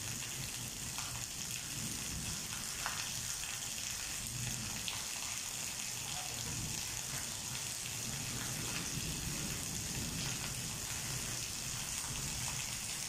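Heavy rain falling steadily on paving and tree leaves: a dense, even hiss with a few sharper drop hits.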